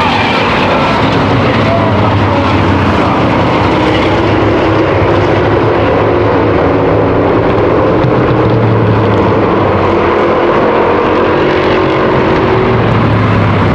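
V8 stock cars and race trucks running at racing speed around the oval, several engines heard at once, their pitch rising and falling as they pass.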